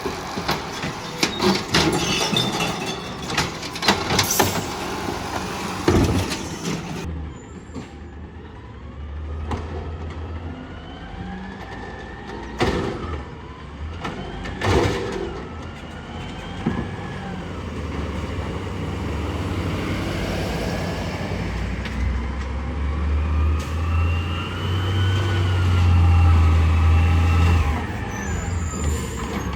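Garbage truck working a collection stop: several sharp bangs and clatter, then the engine revs while a rising and falling whine sounds, loudest near the end.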